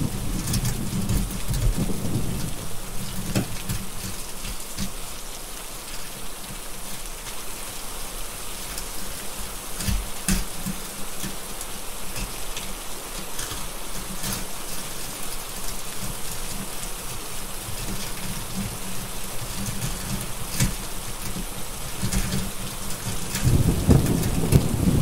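Steady heavy rain with rolling thunder, the thunder rumbling in the first couple of seconds and building again near the end. Scattered sharp crackles from a wood fire in a fireplace come through over the rain.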